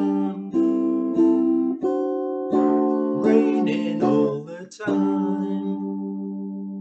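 Ukulele strumming the closing chords of a slow song, several strokes, then a last chord struck about five seconds in that is left to ring.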